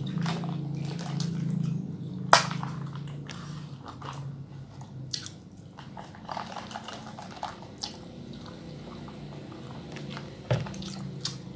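Close-miked chewing and biting of food, with wet mouth clicks; the sharpest click comes about two seconds in and another near the end.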